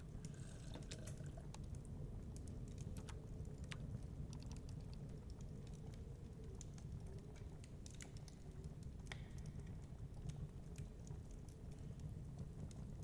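Wood fire crackling in a fireplace: irregular, scattered sharp pops and snaps over a low steady rumble.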